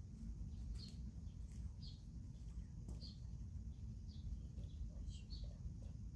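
Small birds chirping in short, high, slightly falling calls, one every half second to a second, over a low steady rumble. A few sharp crackles come through, about a second and three seconds in, fitting the burning Swedish torch log.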